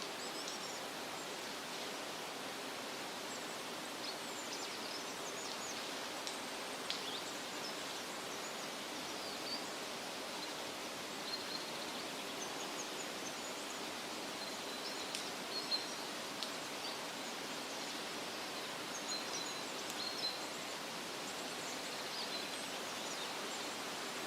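Steady rustle of wind through leafy trees, with small birds giving short, high chirps scattered throughout.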